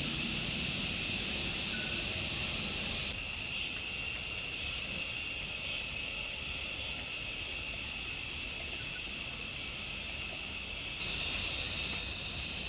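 Steady high buzzing of insects over outdoor ambient noise, the buzz changing abruptly about three seconds in and again near the end.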